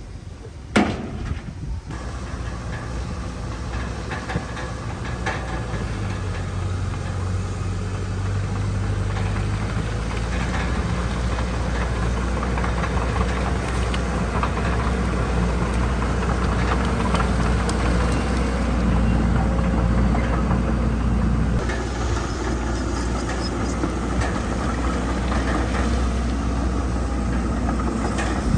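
Heavy diesel engine of earthmoving machinery running, with a sharp knock about a second in; the engine grows louder over the first ten seconds, then holds steady.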